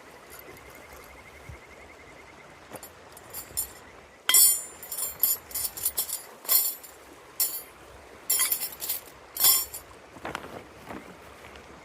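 Hard objects clinking and knocking against each other in an irregular run from about four seconds in, as camp gear is handled, over the steady rush of a river.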